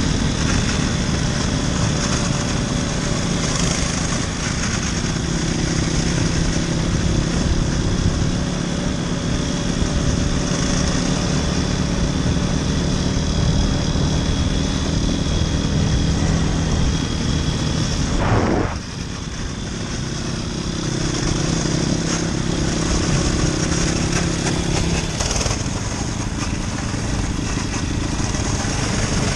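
Motoland RT200 dirt bike's engine running steadily, with a brief drop in engine sound about two-thirds of the way through before it picks up again.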